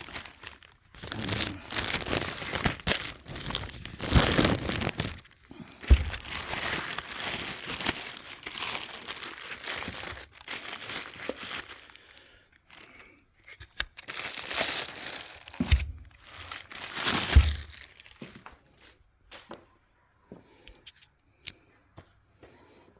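Packing material being torn and crumpled as a box is unpacked, with a few dull thumps, then quieter handling sounds near the end.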